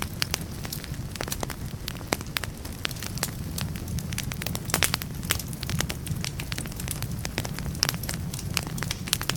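Firewood burning in a fireplace, crackling and popping: many sharp, irregular snaps over a steady low rumble.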